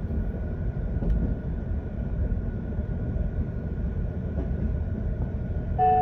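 Cabin running noise of a JR 185 series electric train: a steady low rumble, with a faint steady high tone above it. Just before the end, the next electronic onboard chime melody starts.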